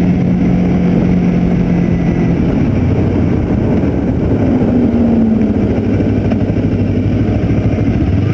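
2008 Kawasaki Ninja 250R parallel-twin engine running on the move, with wind noise. The engine note drops in pitch about two and a half seconds in and then holds steady at the lower note.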